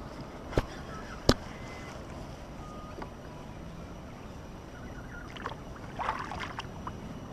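Handling noise on a fishing kayak on the water: two sharp knocks in the first second and a half, the second the louder, and a patch of rustling about six seconds in. A few short bird chirps are heard over a steady background hiss.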